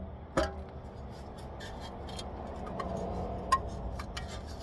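A few light clicks from small car parts being handled, one a moment in and another near the end, over a low steady background noise.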